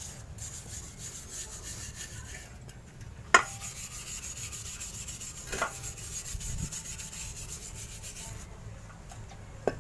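Fine wire brush scrubbing lightly over a motorcycle exhaust, a steady scratchy rubbing that takes off yellow stains loosened by a cleaning solution. A sharp knock sounds about a third of the way in, with smaller knocks later and near the end.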